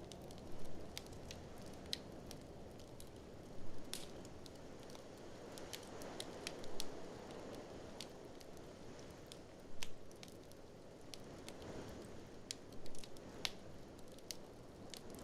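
Wood fire in a fireplace crackling, with irregular sharp pops, the loudest a few seconds apart, over a steady low rush of blizzard wind.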